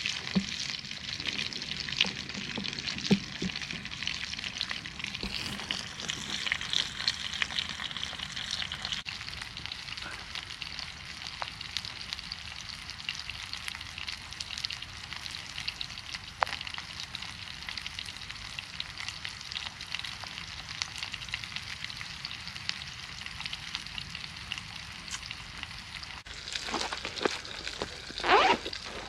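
Food sizzling in a frying pan: a steady crackling hiss, with a few louder scrapes or knocks near the end.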